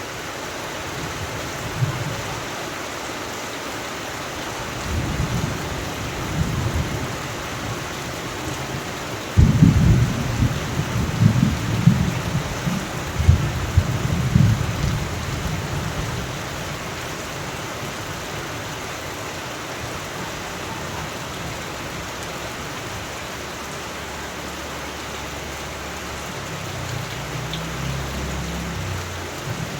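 Steady heavy rain with rolling thunder: low rumbles a few seconds in, a sharp thunderclap about a third of the way through that rolls on for several seconds, and another distant rumble near the end.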